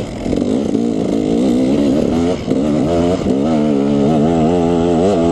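KTM 300 two-stroke dirt bike engine under way, the throttle blipped up and down at first, then held at a steadier, slightly wavering pitch from about three seconds in.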